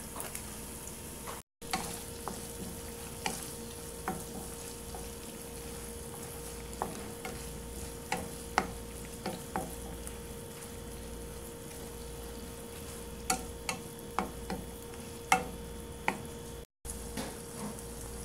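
Octopus pieces frying in oil with onion and garlic in a nonstick pan, a steady sizzle, while a stirring utensil clicks and taps against the pan at irregular moments. The sound cuts out briefly twice.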